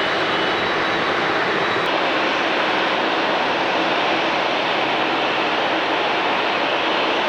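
Jet airliner engines running with a steady, loud rushing noise. A faint high whine stops about two seconds in.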